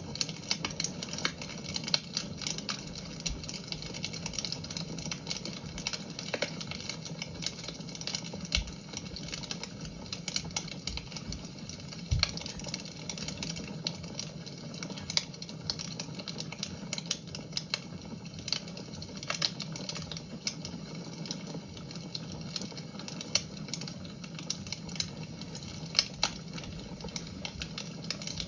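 Fire crackling in a fireplace: a steady low hiss with frequent irregular pops and snaps, some sharper and louder than others.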